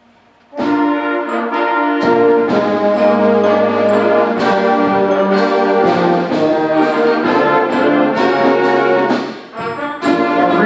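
High school symphonic band starting a piece about half a second in, playing loud, sustained, brass-heavy chords; low bass notes join about two seconds in, and there is a brief drop near the end.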